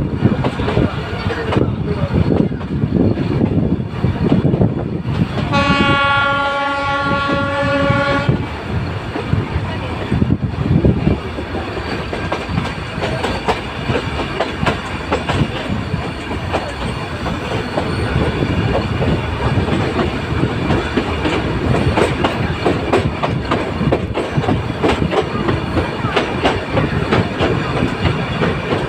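Nilgiri Mountain Railway metre-gauge train running, with a steady rumble and clatter of wheels on the rails. About five seconds in, the train's horn sounds one long steady note lasting nearly three seconds.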